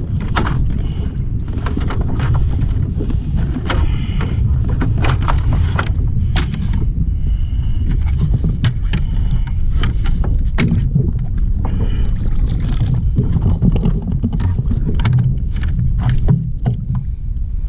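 Water moving against a plastic kayak hull, with a steady low rumble throughout and many scattered sharp clicks and knocks.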